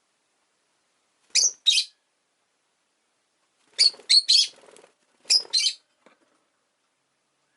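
Rosy-faced lovebird giving short, shrill chirps in little groups: two calls, then a quick run of three or four, then two more, with pauses of silence between.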